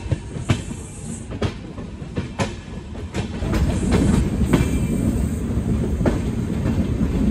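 Passenger train's wheels clacking over rail joints at low speed, with irregular knocks. About three seconds in, a louder rumble of the running coaches builds up.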